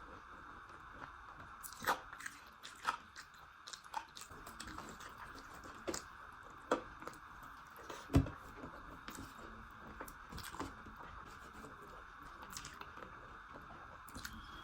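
Close-up eating sounds: a person chewing food, with several separate crunchy bites spread through the stretch, the loudest about eight seconds in, over a steady background hiss.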